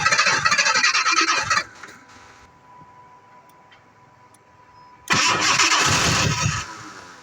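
Jaguar XJ6 straight-six being cranked by its starter in two tries, one ending about a second and a half in and another of about a second and a half near the end, each stopping without the engine catching and running: the car's no-start problem.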